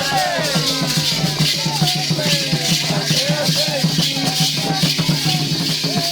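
Candomblé ritual music: voices singing a chant over steady rhythmic drumming, with a shaker rattling throughout.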